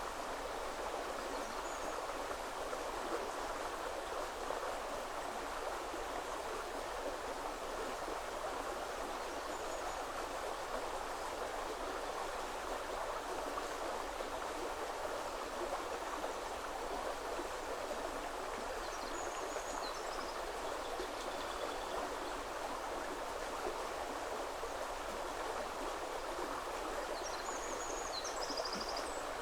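River water flowing steadily, an even rushing noise. A few faint, high bird chirps come in about two-thirds of the way through and again near the end.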